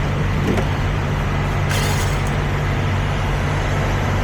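Peterbilt 379 semi truck's diesel engine idling steadily, with a short hiss about two seconds in.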